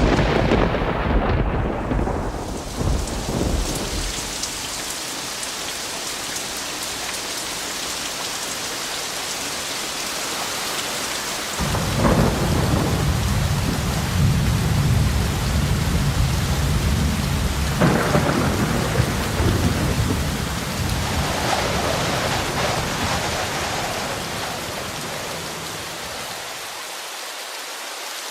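Steady rain with thunder: one peal fading away over the first few seconds, then a long peal breaking in suddenly about twelve seconds in, swelling again around eighteen seconds and dying away near the end.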